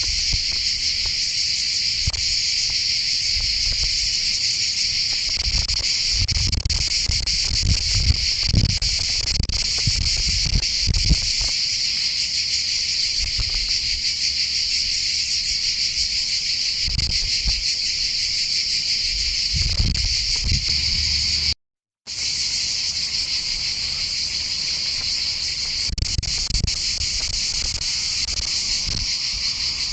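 A steady, unbroken high-pitched chorus of insects, with irregular low rumbles of wind buffeting the microphone. The sound cuts out completely for a split second about two-thirds of the way in.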